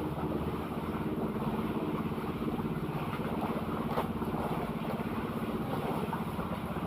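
Small boat's engine running steadily at an even pace, with wind and water noise. There is a brief click about four seconds in.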